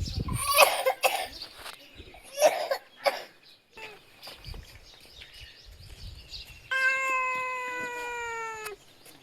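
A few short breathy bursts in the first three seconds, then a kitten's meow about seven seconds in: one long call of about two seconds, level in pitch and sinking a little before it stops abruptly.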